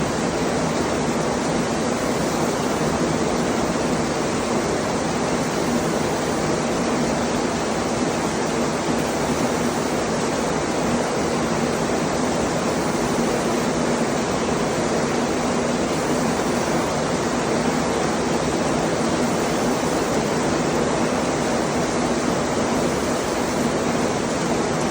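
Heavy rain falling steadily, an even, unbroken hiss with no change in level.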